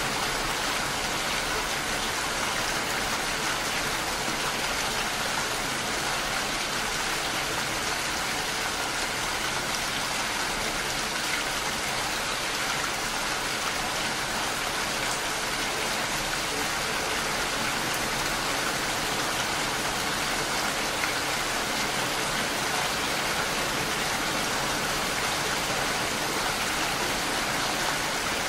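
Steady rain falling, an even hiss at an unchanging level.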